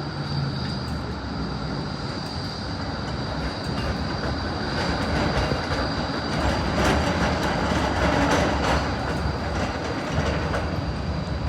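Melbourne electric tram going past on its rails, wheels clicking over the track. It grows louder to a peak a little past the middle and eases off toward the end.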